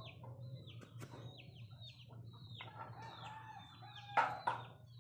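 Chicks peeping over and over in short falling notes, with a hen clucking in the middle. Two loud, short sharp sounds come just past four seconds in, over a steady low hum.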